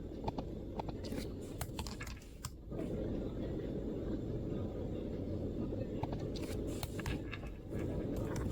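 MacBook keyboard keystrokes, short runs of light clicks about a second in and again around six to seven seconds in, over a steady low background rumble.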